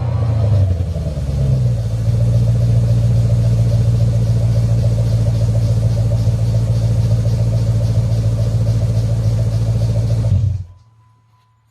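Chrysler 300C 5.7 Hemi V8 exhaust through a Cherry Bomb Extreme muffler and Cherry Bomb glasspack: the engine settles from its start-up flare into a steady idle, then is switched off and cuts out about ten and a half seconds in.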